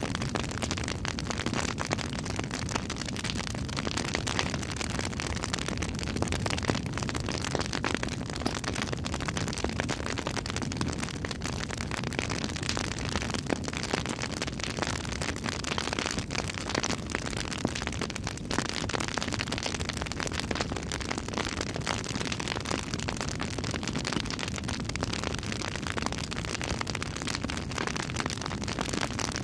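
Wood fire burning with steady crackling and popping, dense small snaps over a constant rush of flame.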